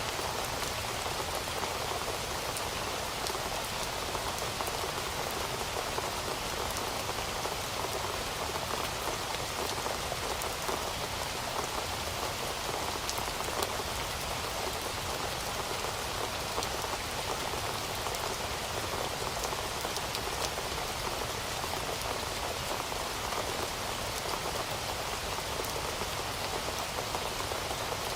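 Heavy rain falling steadily, a dense hiss of countless drops with fine individual patters and ticks throughout.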